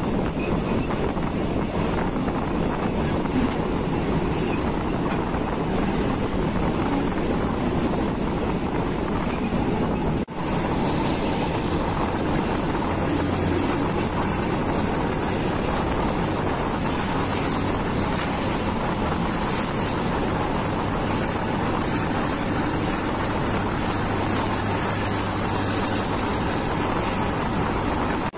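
Passenger train running at speed, heard from an open carriage window: a steady rush of wind and wheel-and-rail noise, with a brief dip about ten seconds in.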